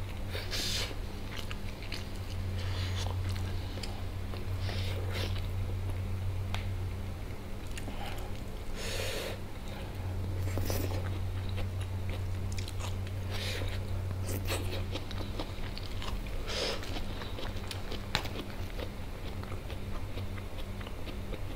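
Close-miked chewing of biryani rice eaten by hand, with brief mouth clicks every few seconds. A steady low hum runs underneath.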